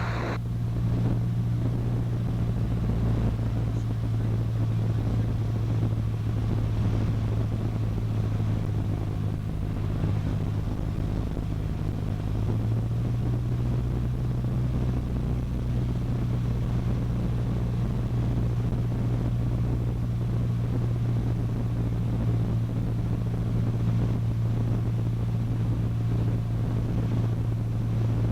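Cessna 152's four-cylinder Lycoming O-235 engine and propeller droning steadily inside the cabin on final approach. The note shifts slightly about twelve seconds in.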